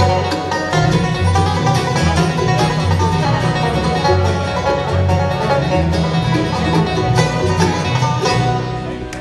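Bluegrass music with a plucked banjo, guitar and a walking bass line, ending abruptly near the end.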